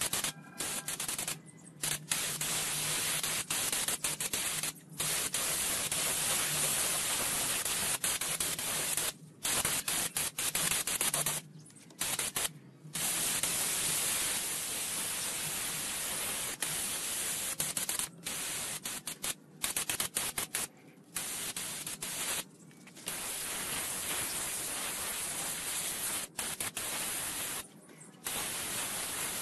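Compressed air hissing from a hand-held air tool, in long bursts that stop and start abruptly many times as the trigger is pulled and released, with a faint steady low hum underneath.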